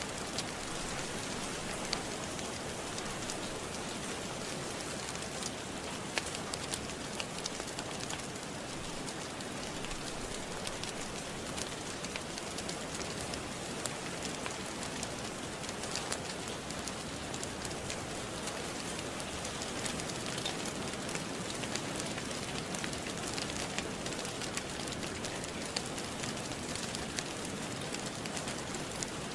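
Steady rain with scattered sharp crackles from a wood fire in a fireplace.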